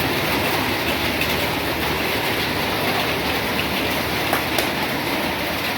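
Heavy rain falling steadily, an even rushing noise, with two faint clicks about four and a half seconds in.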